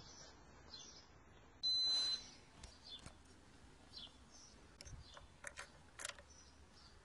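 A single steady high-pitched electronic beep, about half a second long, about two seconds in. Birds chirp faintly, with a few light clicks.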